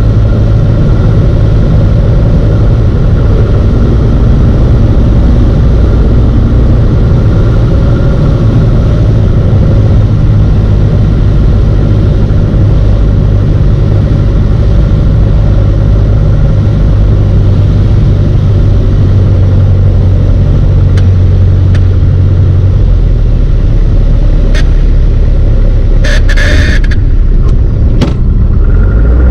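Single-engine piston airplane's engine and propeller running steadily at reduced approach power, a loud drone heard from inside the cockpit. The low drone shifts slightly about two-thirds of the way through, and a few brief clicks and a short higher sound come near the end.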